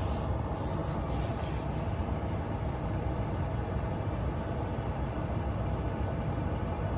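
Ford Maverick pickup running, a steady low rumble, with a few faint ticks in the first couple of seconds.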